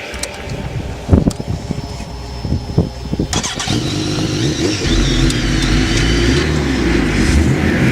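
Racing vehicle engine: uneven low pops with one sharp bang about a second in, then from about three seconds in a steadier, louder engine note that builds as the revs rise.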